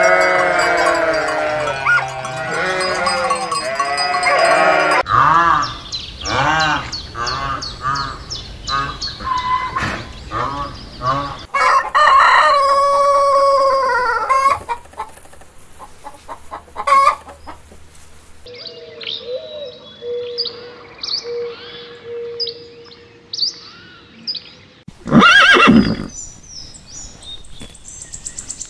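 A flock of sheep bleating over one another. Then separate farm-animal calls and a rooster crowing, with hens clucking. Near the end come short high chirps and one loud call.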